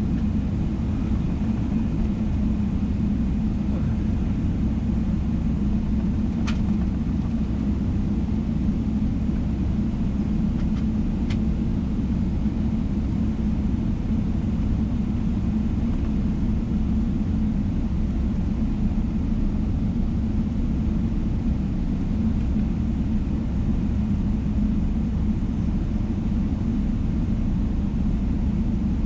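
Steady low rumble of a Boeing 777-300ER's cabin, the engines and airflow heard from a window seat, unchanging throughout. Two faint clicks sound, one about six seconds in and another about eleven seconds in.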